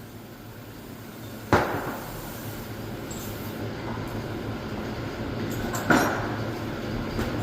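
Two hard metallic knocks with a short ring, about four seconds apart: a hammer driving the pinion shaft out through the differential housing. A steady low hum runs underneath.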